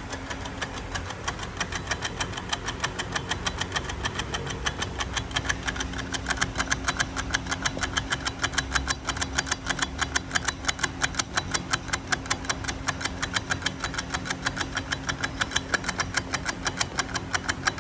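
Rapid, even mechanical ticking, about five ticks a second, over a steady low hum from a car.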